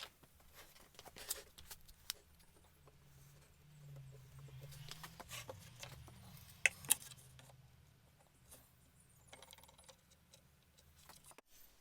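Faint clicks and small knocks of a straight edge being laid on a wooden deck and clamped down, with a soft rustle and two sharper clicks about seven seconds in.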